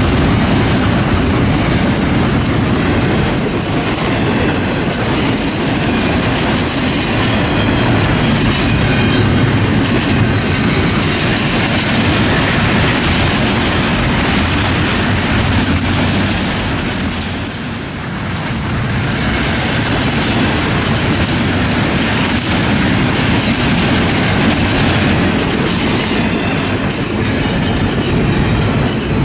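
Double-stack intermodal freight train cars rolling past at a grade crossing: a steady loud rumble of steel wheels on rail. The sound dips briefly about two-thirds of the way through.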